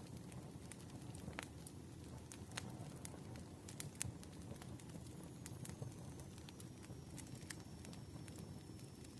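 Wood fire burning, with a steady low rumble and frequent sharp, irregular crackles and pops. A faint thin high whistle starts about halfway through.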